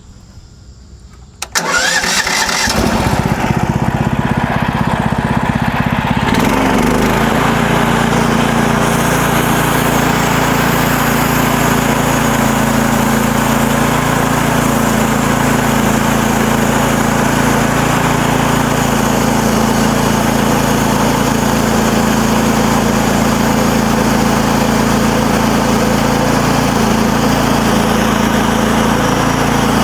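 MechMaxx SM32 sawmill's gas engine starting about a second and a half in, speeding up over the next few seconds, then running steadily at speed.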